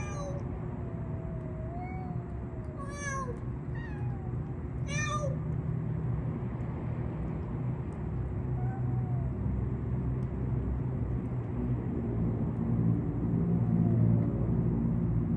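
Cats meowing several times: short, sharp meows near the start and at about three and five seconds in, with softer drawn-out meows in between and near the end. Under them runs a steady low rumble that grows louder toward the end.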